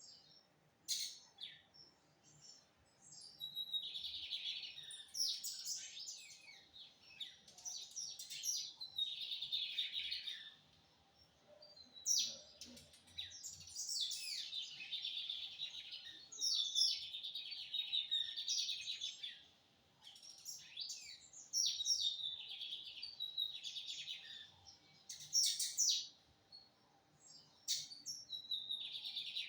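Bigodinho (lined seedeater) singing in long phrases of fast, high notes, each a few seconds long with short pauses between, repeated over and over.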